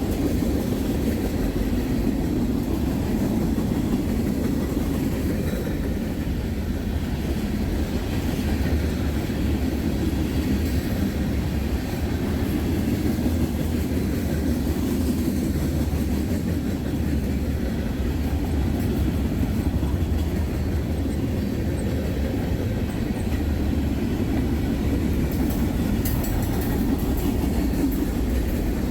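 Loaded tank cars of a freight train rolling past steadily.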